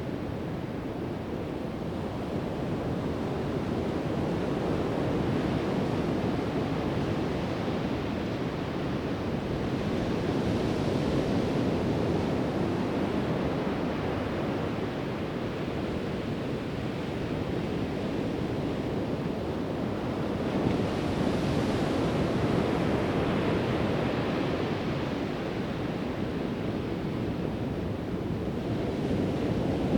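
Pacific Ocean surf washing on a sandy beach: a continuous rushing wash that swells as waves break, about 10 s and again about 21 s in, then eases off. Light wind buffets the microphone.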